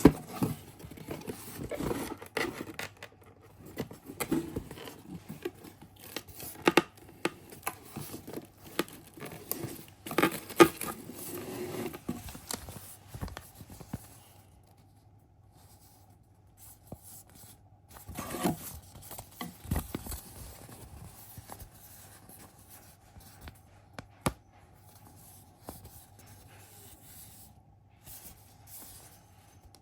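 Irregular scraping, rustling and sharp clicks of something being handled, busiest in the first half and sparse after, over a faint steady hum.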